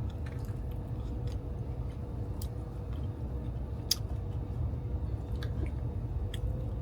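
Close-up chewing of food, with scattered small crisp clicks and one sharper click about four seconds in, over a steady low hum of the train carriage.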